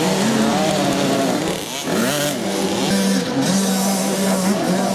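Several motocross bikes' engines revving at once, pitches rising and falling over one another as riders open and close the throttle, with one engine held at a steady pitch.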